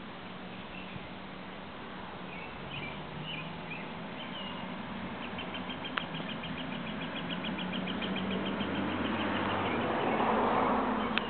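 Small songbirds chirping, then a rapid, even trill of high chips, about six a second, lasting a few seconds, over a low steady hum. Near the end comes a brief rustle.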